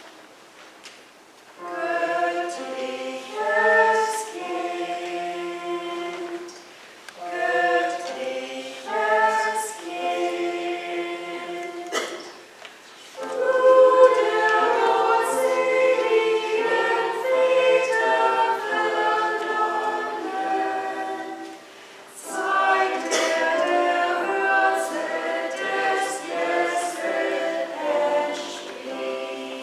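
Church choir singing a choral piece in several phrases, with short breaks between them.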